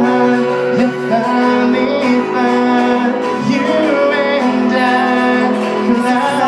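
Acoustic guitar strummed with a voice singing over it, live music.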